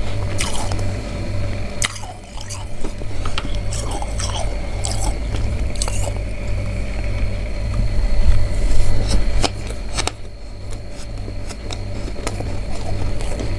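Freezer frost being bitten and chewed, a run of sharp, irregular crunches that is loudest a little past the middle. A steady hum runs underneath.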